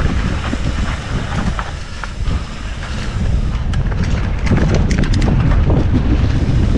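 Wind buffeting the microphone as a mountain bike rolls down a rough trail, with short rattles and clicks from the bike. It gets louder about halfway through as the pace picks up.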